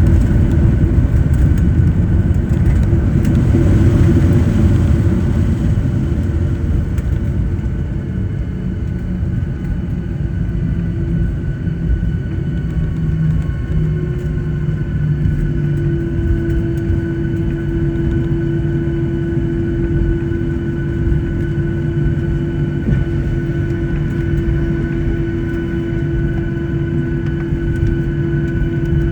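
Cabin noise inside a Boeing 737-800 on the ground after landing, with the engines running low. A low rumble eases off over the first several seconds, and steady engine hum tones run under it. A louder steady hum comes in about halfway through.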